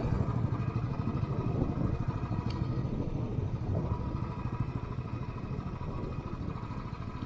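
Motorcycle engine running at a steady cruising speed, heard from the rider's own bike with road and wind noise.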